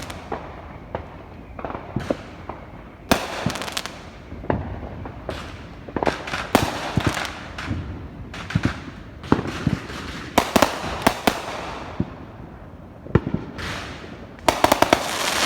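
Fireworks going off: a string of sharp bangs with crackling tails, coming in dense rapid volleys about six, ten and fifteen seconds in.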